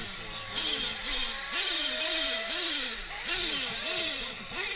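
Several nitro RC truck engines revving up and down as they accelerate and brake around the track. Their pitches rise and drop about every half second and overlap one another.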